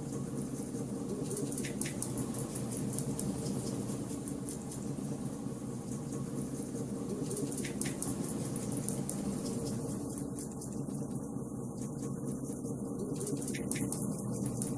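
Wood fire burning in a fireplace, crackling softly and steadily, with a few sharp pops from the burning logs, two coming close together about two seconds in and again near the middle.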